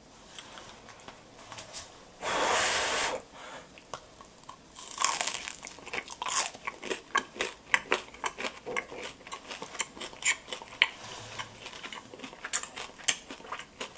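Someone biting into and chewing a freshly made Liège waffle with a crisp pearl-sugar crust. A loud crunch comes about two seconds in, then a long run of close, crackly crunching as it is chewed.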